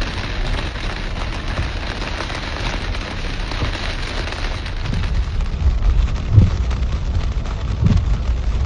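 Heavy rain falling in a steady hiss, with deep low rumbles swelling in and out through the second half.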